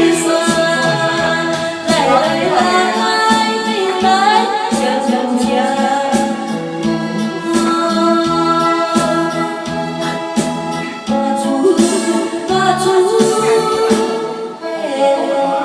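A song playing: a singing voice over instrumental backing with a steady beat.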